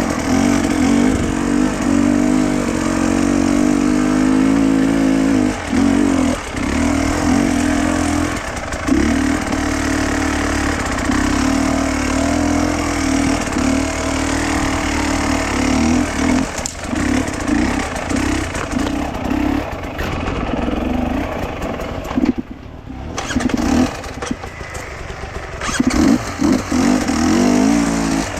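A vehicle engine running steadily under way, with brief let-offs and a longer easing of the throttle about two thirds of the way through.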